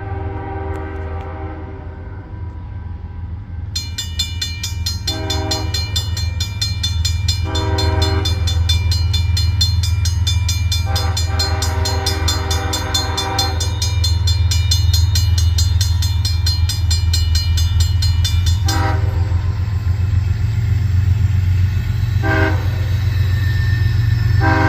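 A GE ES44AH diesel locomotive's Nathan K5HL five-chime horn sounding a series of long and short blasts, over the low, steady rumble of the locomotive growing louder as it approaches. A rapid high ringing runs from about four seconds in to about nineteen.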